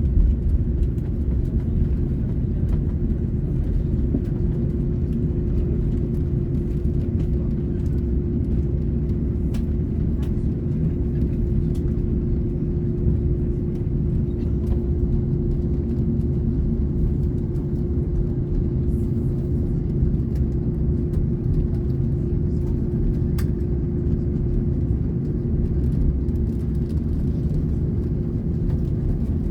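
Cabin noise of an Airbus A330neo on the ground before takeoff: a steady low rumble with a steady mid-pitched hum running under it and a few faint knocks.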